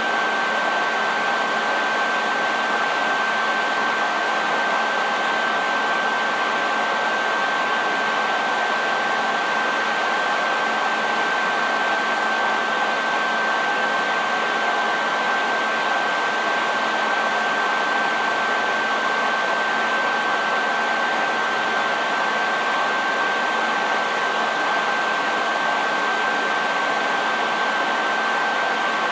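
Hair dryer running steadily: a constant rush of blown air with a steady high whine from its motor and fan over a faint low hum.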